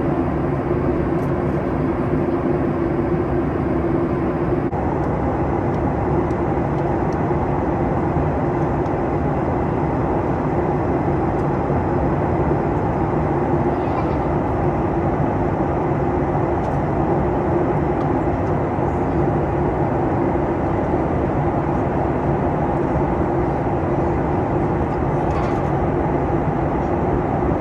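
Steady cabin drone inside a Boeing 737 MAX 8 in flight: continuous airflow and engine noise with a low, even hum.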